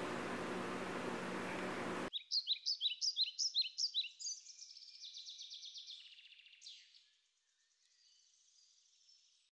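A songbird singing: a rapid series of about nine sharp, high, down-slurred chirps, then a softer, quicker trill that fades out about seven seconds in. Before it, for about two seconds, a steady low room hum.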